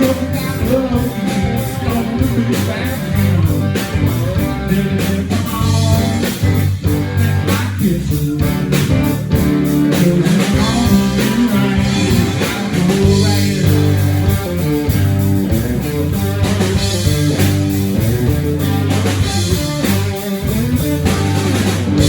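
Live rock band playing: electric guitar over bass and a steady drum beat.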